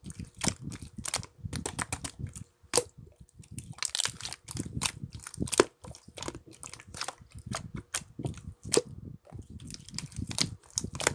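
Slime being squeezed, pressed and stretched by hand close to the microphone, giving irregular sticky clicks and small pops with soft squishing in between.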